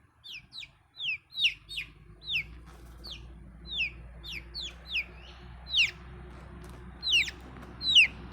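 Young chickens peeping: a run of short, high calls that fall in pitch, about two a second. A low steady hum sits beneath them from about a second and a half in.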